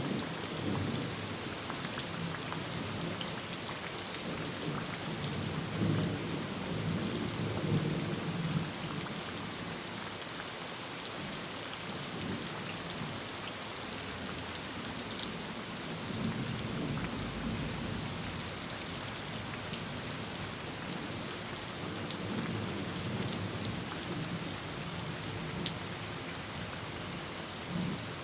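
Heavy rain drumming steadily on a tin roof, with scattered sharp drop ticks. Low rolls of distant thunder swell and fade several times: through the first third, again about halfway through, and once more near the end.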